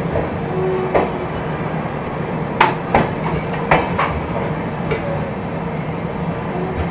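Passenger train running at speed: a steady rumble of the wheels on the rails, with about six sharp, unevenly spaced clacks as the wheels cross rail joints.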